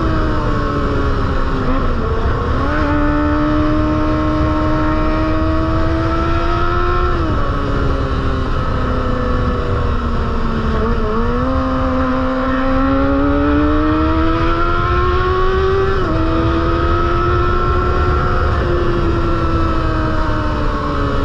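Kawasaki ZX-25R's 250 cc inline-four running through an aftermarket Proliner exhaust, ridden along: its high engine note holds, dips and climbs again several times as the throttle changes, over a steady rush of wind noise.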